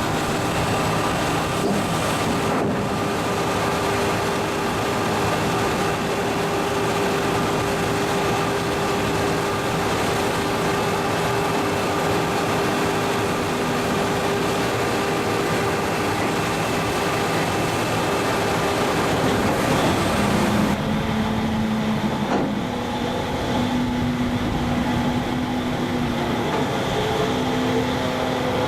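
Heavy diesel machine noise from the DUX ET-24 ejector truck, a steady running drone with a continuous whine over it. About two-thirds of the way through, the sound changes: it turns duller, and lower tones come and go in steps.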